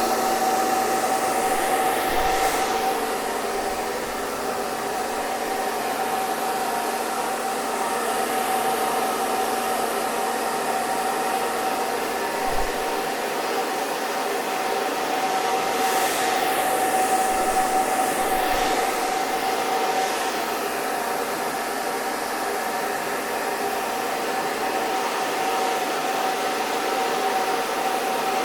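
Hair dryer running steadily: a continuous rush of air with a steady motor whine, its tone shifting slightly a couple of times.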